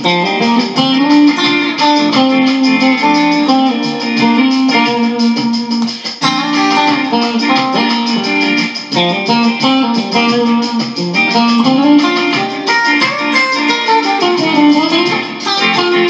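Guitar being played: a continuous stream of plucked notes and chords, with a note bent or slid about three-quarters of the way through.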